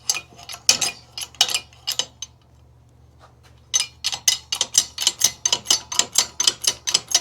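Ratchet wrench clicking, metal on metal. It starts with a few irregular clicks, pauses briefly, then from about halfway settles into a steady run of about four clicks a second.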